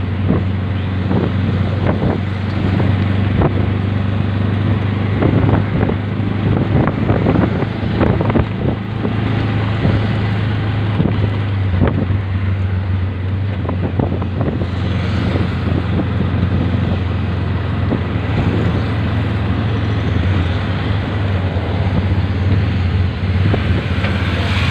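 A vehicle engine running steadily as it travels along a road, with wind on the microphone. Irregular knocks and rattles come through, mostly in the first half.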